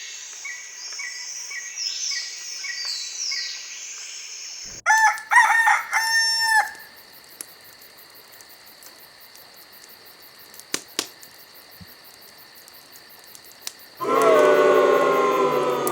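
Outdoor animal sounds: small birds chirping, then after an abrupt cut about five seconds in, a loud crowing call in three parts. A steady high insect drone follows, and near the end comes another loud, long call.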